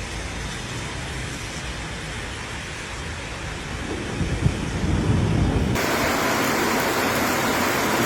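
Steady rush of heavy rain and floodwater, with a low rumble swelling for a second or so around the middle. About six seconds in the sound changes abruptly to a brighter, hissier rush of rain.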